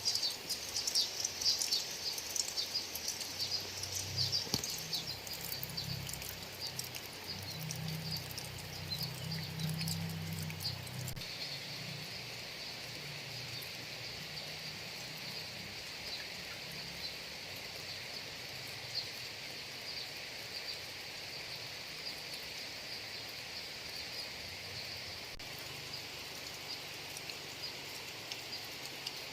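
Rain falling over rice paddies, with a steady high insect chorus and scattered drop ticks. A low rumble runs through the first ten seconds or so, then fades.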